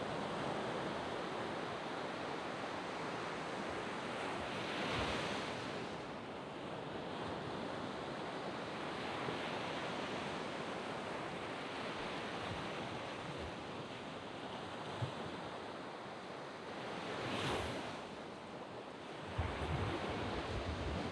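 Surf washing onto a sand beach, a steady hiss of broken water with two louder waves breaking about five seconds in and again about seventeen seconds in. Near the end a low rumble of wind buffets the microphone.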